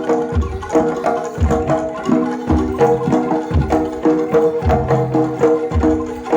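Jaranan dor ensemble music: a repeating pattern of pitched gamelan gong-chime notes over hand drumming and deep bass-drum thumps, in a steady driving rhythm.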